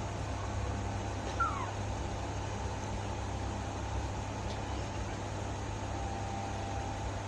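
A baby monkey gives one short squeak that falls in pitch, about a second and a half in, over a steady low hum.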